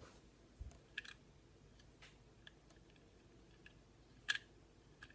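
A few faint, sharp clicks of small trigger parts being handled and fitted into a Smith & Wesson M&P Shield pistol frame, the sharpest about four seconds in.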